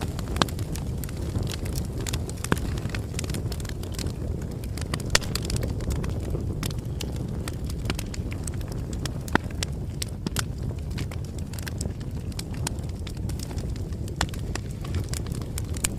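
Wood fire burning: a steady low rumble of flames with irregular sharp crackles and pops, several a second.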